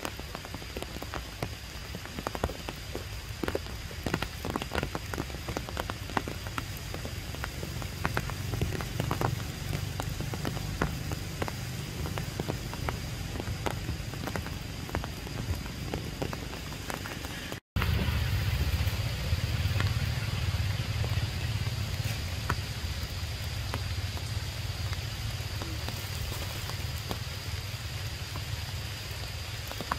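Rain falling, with many separate drops tapping close by. About 18 seconds in the sound cuts out for an instant and comes back as a louder, steadier hiss with a low rumble and fewer separate drops.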